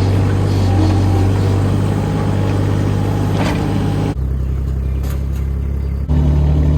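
Excavator engine running steadily with a low, even hum. Its pitch and level shift abruptly about four seconds in and again about six seconds in.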